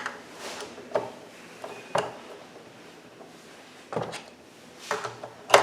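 Screwdriver clicking and knocking against the screws and metal of a sewing machine's hook assembly as the two hook-timing screws are tightened. Sharp single clicks come roughly a second apart, the loudest near the end.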